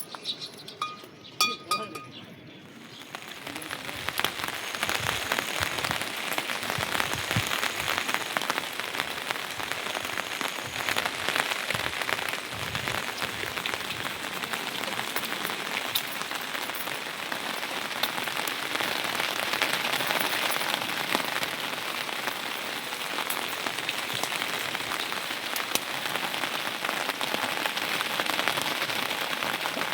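Steady rain falling in a dense patter, setting in about three seconds in after a few light clinks.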